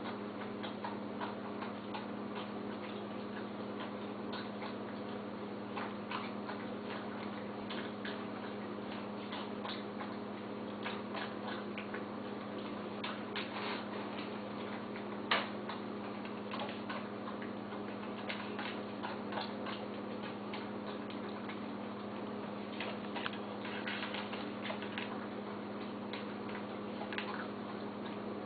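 A dog eating: irregular small clicks and crunches of chewing and of contact with the bowl, with one sharper click about halfway through, over a steady low hum.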